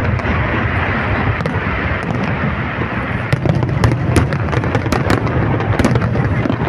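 Aerial fireworks display: many shells bursting overhead in quick succession, a continuous low rumble with sharp pops and crackles throughout.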